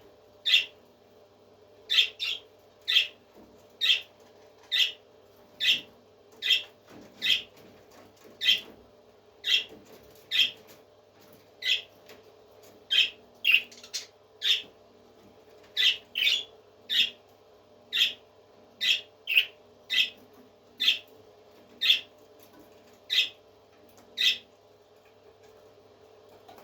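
A parrot repeating short, sharp squawking calls about once a second, now and then two in quick succession, falling silent near the end. A steady low hum runs underneath.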